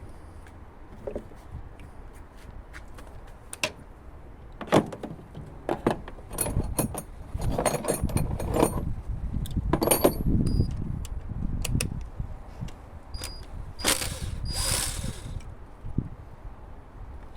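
Metal tools and parts clinking, rattling and knocking at irregular moments, with busier clusters of rattling about a third of the way in and again near the end.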